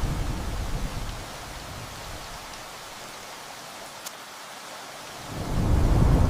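Steady rain with rolling thunder. A low rumble of thunder fades out in the first second, the rain hisses on alone with a single sharp tick about four seconds in, then thunder rumbles in again near the end.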